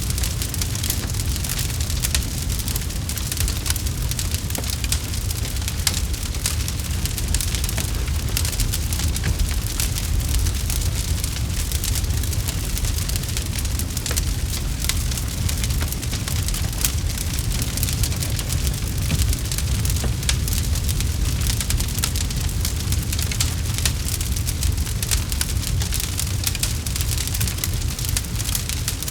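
Campfire crackling: many small pops and snaps, close together, over a steady low rumble.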